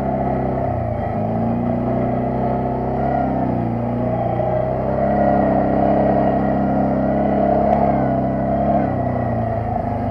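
ATV engine running under way, its pitch falling and rising with the throttle, over a steady rushing noise.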